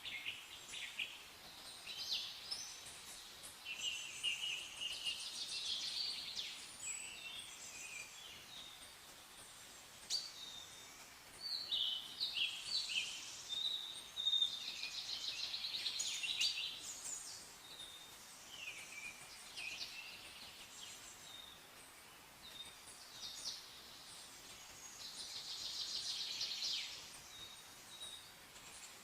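Several songbirds chirping and singing, with short chirps, trills and rapid runs of repeated high notes coming in clusters, over a faint steady background hiss.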